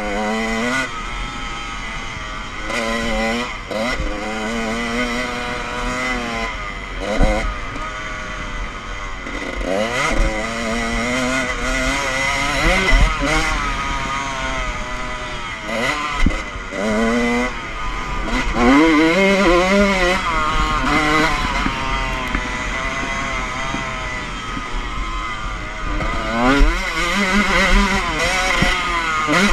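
Motocross dirt bike engine revving hard, its pitch climbing and dropping again and again as the throttle is opened and closed.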